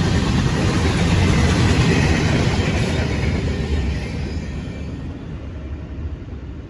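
A CSX train rolling past on the rails, a heavy rumble with a hiss of wheel and track noise that fades steadily over the last few seconds as the train moves away.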